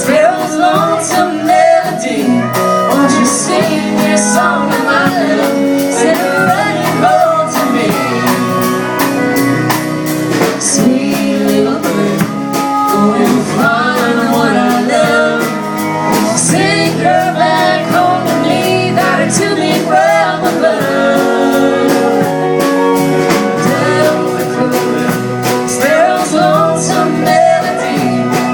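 Live country music: guitar playing chords under a gliding melodic lead line, with a singing voice.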